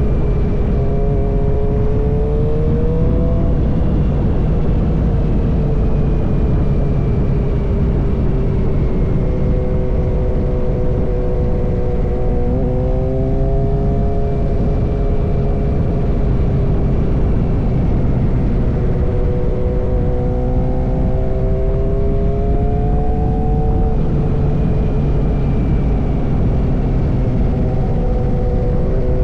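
Suzuki GSX-R inline-four motorcycle engine with an M4 full-system exhaust, running steadily under way. Its pitch slowly rises and falls and shifts abruptly a few times, as with throttle and gear changes, over a low rushing rumble.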